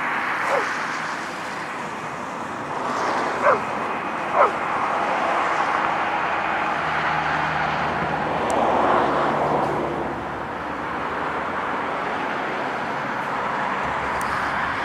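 A dog barking a few short times, each bark falling in pitch, over a steady background rush.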